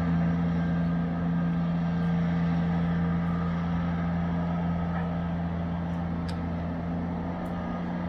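Steady low machine hum, unchanging throughout, with a couple of faint ticks.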